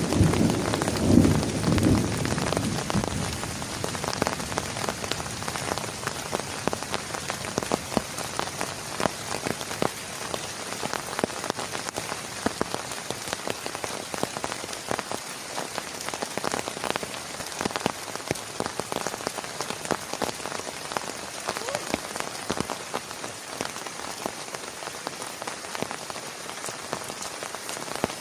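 Heavy rain falling steadily, with many separate drop strikes on a nearby surface. A low rumble of thunder dies away over the first few seconds.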